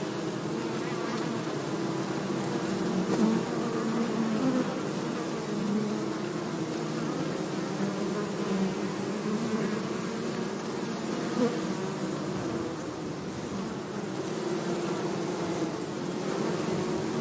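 A mass of honey bees buzzing in a dense, steady hum of many overlapping wingbeats that waver slightly in pitch.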